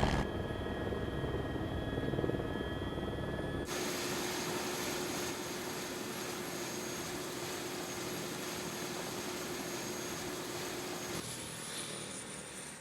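Helicopter running, its turbine engine and rotor making a steady noise with a steady whine; the sound changes abruptly about four seconds in and again near the end.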